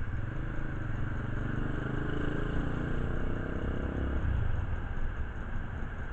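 A motor vehicle engine running, its low hum growing stronger and then fading away a little after four seconds in.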